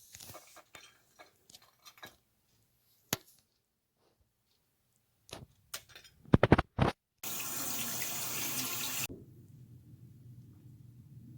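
Scattered small clicks and knocks, a few loud sharp knocks just past the middle, then a steady rush of running water for about two seconds that starts and cuts off abruptly.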